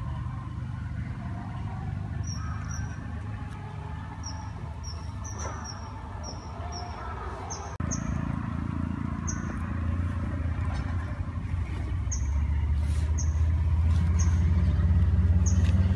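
A bird giving short, high chirps over and over, roughly one or two a second, over a low rumble that jumps louder about halfway through and grows louder again near the end.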